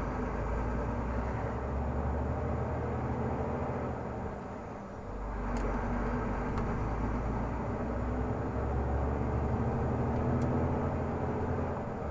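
Renault Magnum 480 truck's 13-litre straight-six diesel running under way, a steady low drone that eases off briefly about halfway through, then pulls again.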